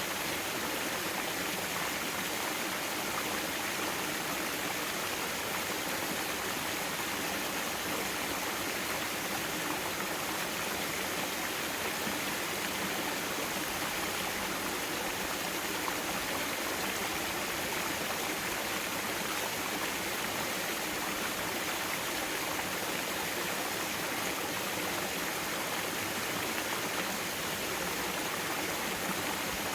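Mountain stream water flowing steadily over rocks, an even rushing without a break.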